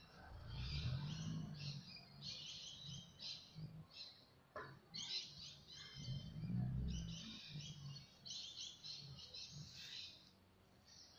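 Many birds chirping and chattering in a dense, continuous chorus. Low rumbling sounds come in briefly about a second in and again around seven seconds in.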